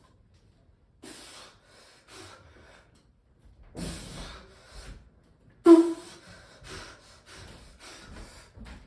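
A weightlifter breathing hard during a high-rep bench set: sharp, forceful breaths, sparse at first, the loudest about six seconds in, then coming quicker toward the end.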